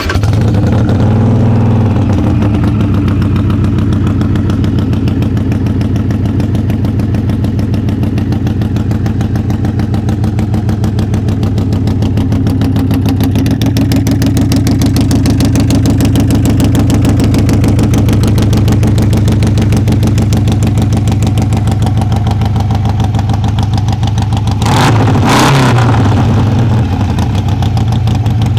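2014 Harley-Davidson Sportster 883 Iron's air-cooled 883 cc V-twin idling steadily through an exhaust with its baffles taken out, giving it some volume. One quick rev of the throttle comes near the end.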